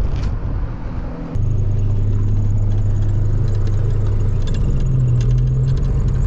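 Renault 4 van's small four-cylinder engine running as the van drives, a steady low drone. It becomes louder and more even about a second and a half in.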